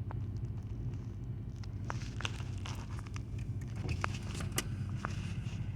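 Vehicle engine idling with a steady low hum, with scattered sharp clicks and ticks over it from about two seconds in.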